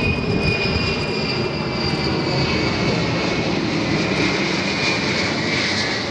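Airplane engine running, a dense steady rumble with a high whine over it that drifts slightly lower toward the end.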